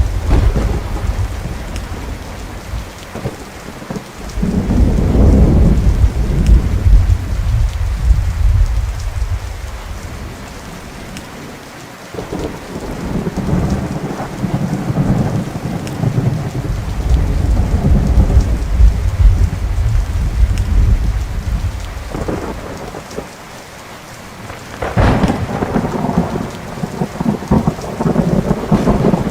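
Thunder rumbling in long, rolling swells over steady rain. A sharp, close crack comes near the end and runs straight into more rumbling.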